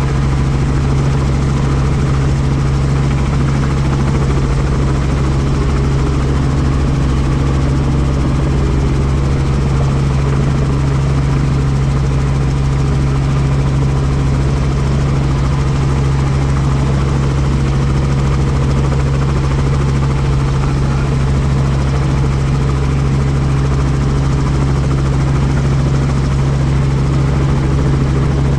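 Helicopter rotor and engine running steadily: a constant low hum with an even wash of noise above it, unchanging throughout.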